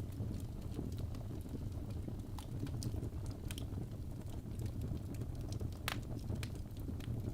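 Wood fire burning in a fireplace: a steady low rumble of the flames with irregular sharp crackles and pops from the logs, one pop louder than the rest a little before six seconds in.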